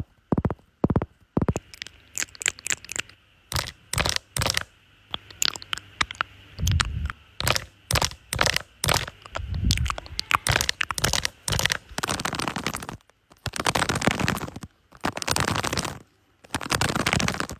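Close-miked ASMR trigger sounds: a quick run of sharp clicks and taps, then, about two-thirds of the way in, longer rubbing strokes repeated about once a second.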